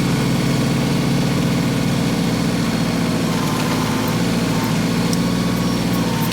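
LS XG3025 compact tractor's three-cylinder diesel engine running steadily, heard close up from the operator's seat.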